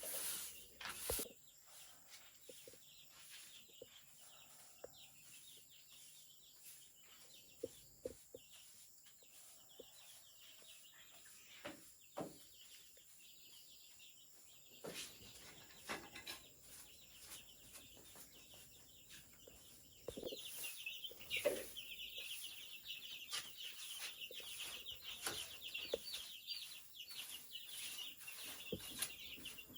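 Faint bird calls and scattered light knocks. About two-thirds of the way in, a dense, fast, high chirping starts and carries on.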